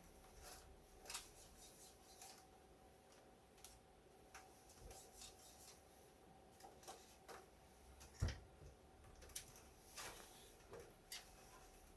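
Faint scattered clicks and taps from an HP 3458A multimeter being handled and turned over, with one louder knock about eight seconds in. The unit is being tipped to listen for a loose part rattling inside.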